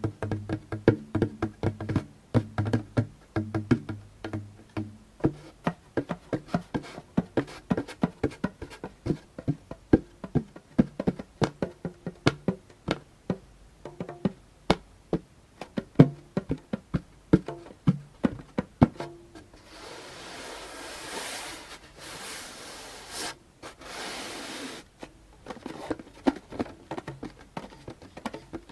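Hands tapping on a djembe: for the first few seconds the drum's low note rings under the taps, then come quick, light fingertip taps with no ringing. From about twenty seconds in there are several seconds of scratching on the drumhead before the tapping resumes.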